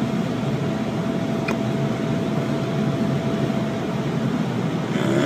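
Steady road and engine noise inside a car's cabin while driving on a highway, with a faint steady whine that fades out near the end.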